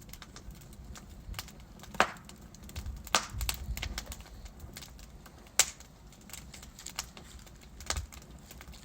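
Wood logs burning in a fireplace, crackling with an irregular patter of small ticks and four louder sharp pops spread through, over a low rumble.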